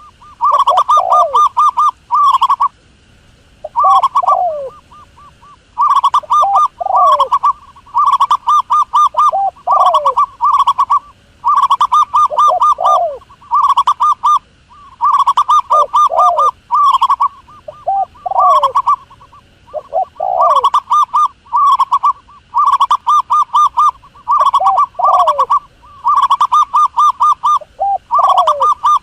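Wild dove calls played as a hunting lure: rapid phrases of pulsed cooing notes repeating every second or two, with short falling notes between them.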